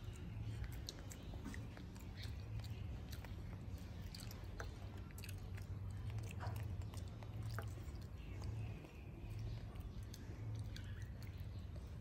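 Close-up chewing and nibbling, with small clicks and crackles of nuts being shelled and eaten, over a steady low hum.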